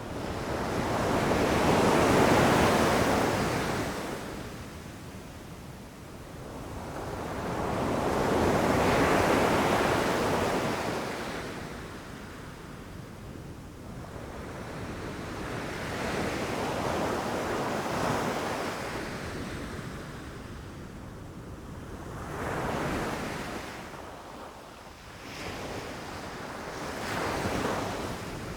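Ocean waves breaking on a beach, each wave rising to a wash of surf and fading, with the biggest crashes about two and nine seconds in and smaller, closer ones near the end. Some wind buffets the microphone.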